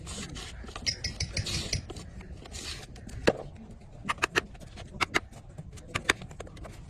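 Irregular sharp knocks and clicks, a few close pairs about a second apart in the second half, with brief hissy rustling in the first few seconds.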